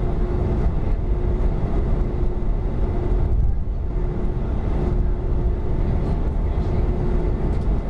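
Boeing 737-300's CFM56-3 turbofan engines running, heard from inside the passenger cabin as a steady, loud low rumble with a faint steady hum through it.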